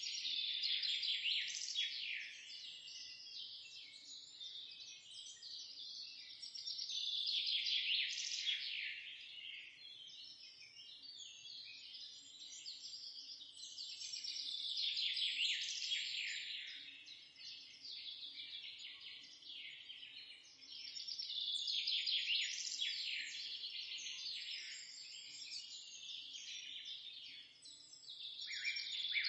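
Recorded birdsong: small birds chirping and twittering rapidly and high-pitched, swelling into loud bouts about every seven seconds and thinning out in between.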